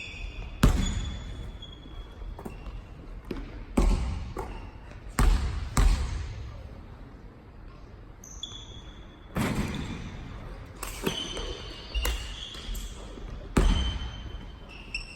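Basketball bouncing on a gym floor in irregularly spaced thuds that ring on in the hall, with short high squeaks of sneakers on the court.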